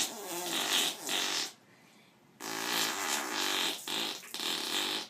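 Two long, rasping, fart-like blasts with a buzzing pitch that wavers. The first stops about a second and a half in, and the second starts about a second later and lasts around two and a half seconds.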